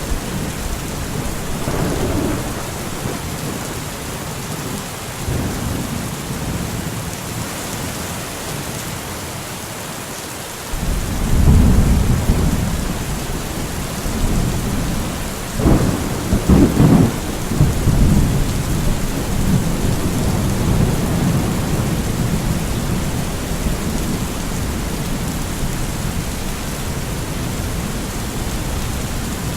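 Steady rain falling during a thunderstorm. A deep thunder rumble swells about a third of the way in, and a few sharp, loud thunder cracks follow a few seconds later before the rumble dies back under the rain.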